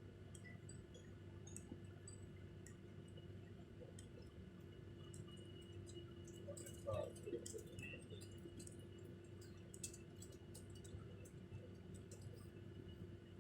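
Faint steady hum of a parked airliner's cabin, most likely its ventilation, with scattered small clicks and a brief louder sound about seven seconds in.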